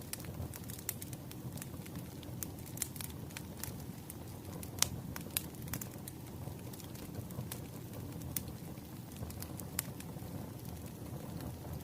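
Wood bonfire crackling: a steady low rumble of flames under frequent sharp snaps and pops, with one louder pop about five seconds in.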